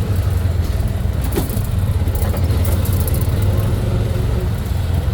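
Steady low rumble of a road vehicle's engine and road noise, with one brief knock about a second and a half in.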